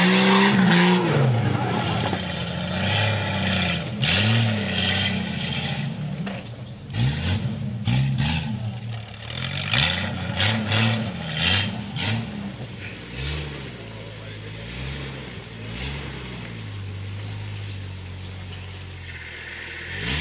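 Off-road 4x4 trial vehicle engines revving up and down in repeated bursts while climbing over rocks and mud, with sharp knocks between about 7 and 12 seconds in. Quieter, steadier running follows near the end.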